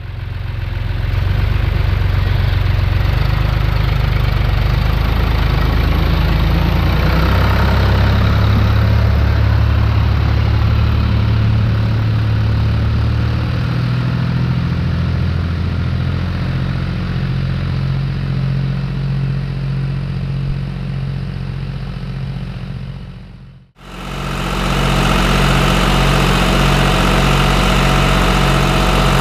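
Diesel tractor engine running steadily while ploughing. The sound dips out briefly about three-quarters of the way through and comes back as another take of an engine running.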